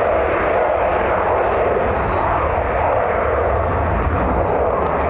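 Jet airliner engine noise: a steady rushing roar that holds level without rising or falling.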